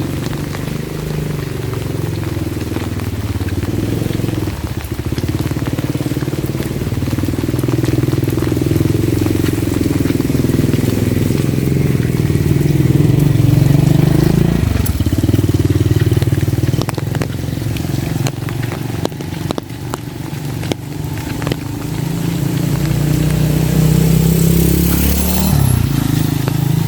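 A motor vehicle engine running close by, its pitch rising and falling as it revs and eases off, with a drop in pitch near the end. Steady rain hiss lies underneath.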